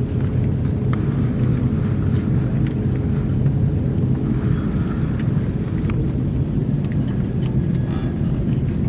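A steady low engine drone, with a few faint ticks over it.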